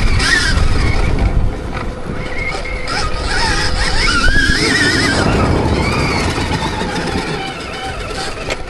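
Electric motocross bike motor whining, its pitch rising and falling with the throttle, over wind rumble on the microphone.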